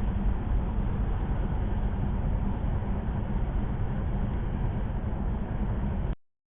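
Steady road noise inside a moving car's cabin: tyre and engine drone at highway speed, heaviest in the low end. It cuts off abruptly to dead silence about six seconds in, an audio dropout.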